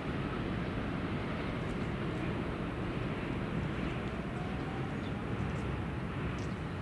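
A train running past, a steady noise of wheels on track with a faint gliding whine in the second half.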